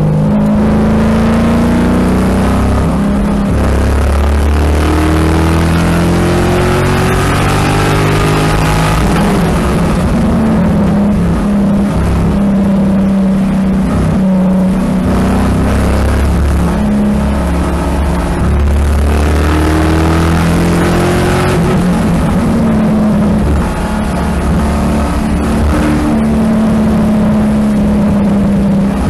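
A 2007 Corvette C6 Z06's 7.0-litre LS7 V8 on track at racing speed, heard from inside the cabin. The engine note climbs under acceleration and falls back on lifts and gearchanges, again and again, over steady wind and tyre noise.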